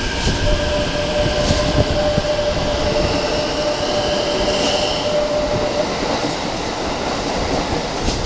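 Keikyu 1000-series electric train pulling out and running past, with a steady motor tone that cuts off about six seconds in and wheels clacking over rail joints.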